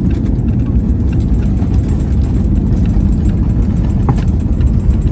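Loud, steady low rumble of engine and airflow noise inside the cabin of an Airbus A321neo during landing.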